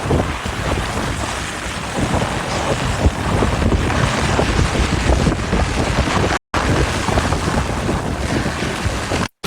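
Wind and surging water, with wind buffeting the microphone. It cuts out briefly twice, about six and a half seconds in and near the end.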